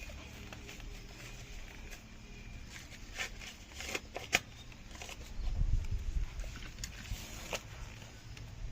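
Dry maize leaves and husks rustling, with scattered sharp snaps, as cobs are picked by hand. A low muffled rumble a little past halfway is the loudest part.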